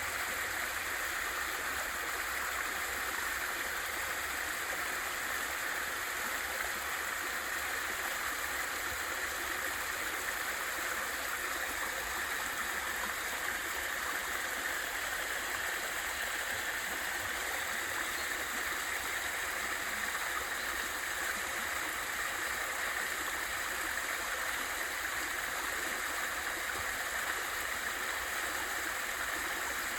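Steady, continuous rushing of a small waterfall and mountain stream, water pouring over rocks.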